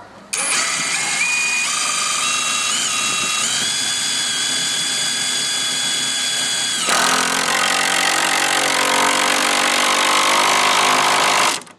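A newtall 20V brushless impact driver drives a tough screw into a fence. Its motor whines and steps upward in pitch for about the first seven seconds. The sound then turns louder and harsher as the tool starts its impact hammering against the screw's resistance, and it stops near the end once the screw is in.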